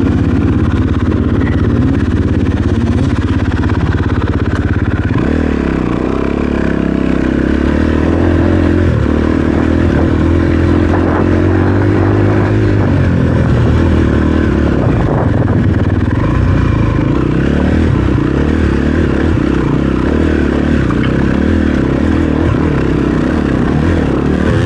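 Dirt bike engine running under load on a rocky trail, its revs rising and falling as the throttle is worked, with knocks and clatter from the bike over the rocks.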